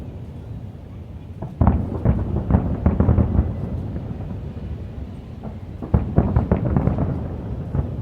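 Fireworks exploding in a display: a quick run of deep bangs starting about one and a half seconds in, a short lull of rumbling, then a second run of bangs around six seconds in.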